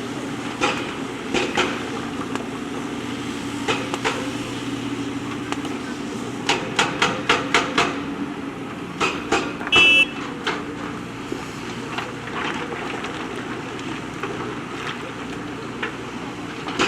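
A JCB backhoe loader's diesel engine running steadily, with sharp knocks and clanks of the bucket working among stones, including a quick run of about six in the middle. A brief high tone sounds near the 10-second mark.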